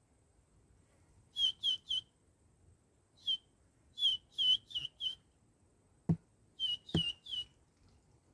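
Lesser whistling ducks giving short whistled calls in quick runs of three or four notes. Two sharp knocks come in the second half.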